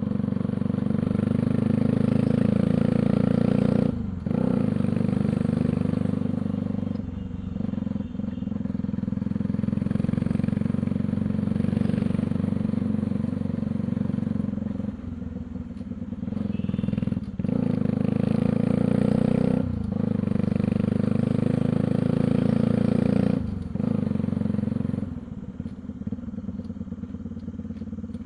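Bajaj Pulsar NS200's single-cylinder engine running under way through an aftermarket underbelly sports exhaust. It drops off briefly every few seconds and runs lower and quieter near the end.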